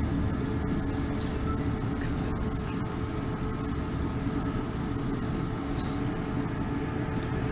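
Inside a South West Trains electric suburban train carriage running between stations: a steady low rumble of the wheels on the track, with a faint constant hum.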